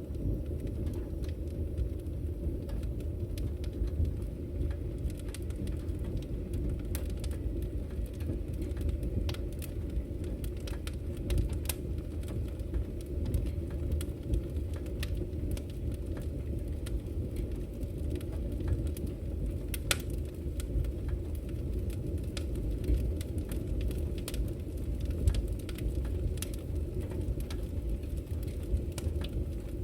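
Wood fire burning in a fireplace, crackling with irregular sharp pops and snaps, a few louder than the rest, over a steady low rumble.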